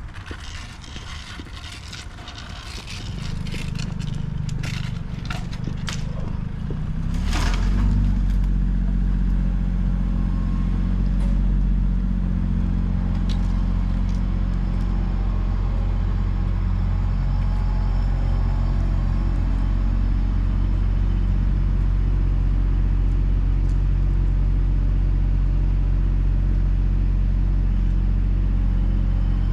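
A truck engine running, with some rattling and clatter at first. About seven seconds in the engine gets louder and settles into a steady low drone under load.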